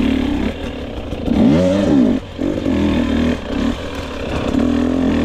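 2022 GasGas EX 250's single-cylinder two-stroke engine running at low revs off-road, with one quick throttle blip about a second and a half in that rises and falls in pitch.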